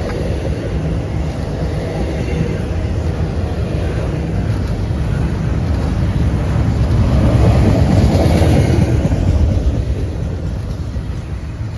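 Train passing, a steady rumble of rail traffic that swells to its loudest about eight seconds in and then eases off.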